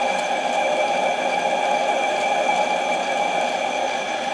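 Harbor Freight mini lathe running steadily, its motor giving a constant whine over a hiss.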